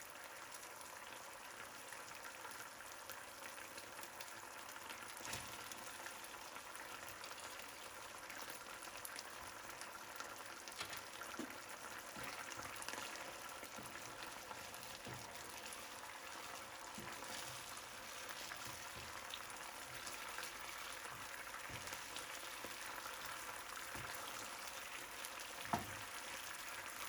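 Chicken breast cooking in a pan of simmering tomato sauce: a faint, steady sizzling and bubbling, with a light tick near the end.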